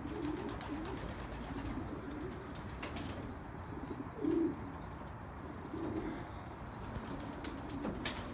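Domestic pigeons in a loft cooing on and off, several low coos in turn with the loudest about four seconds in. A faint high wavering peep runs underneath, and a couple of sharp clicks.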